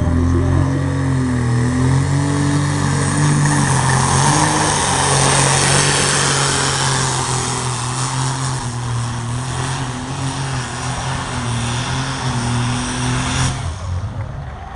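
A competition pulling vehicle's engine running hard at high revs through a pull, with a steady, slightly wavering pitch. The throttle is cut suddenly near the end, as the pull finishes.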